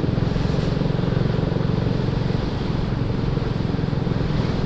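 BSA Gold Star's single-cylinder engine running steadily at an even, low-speed cruise, its firing pulses heard close up.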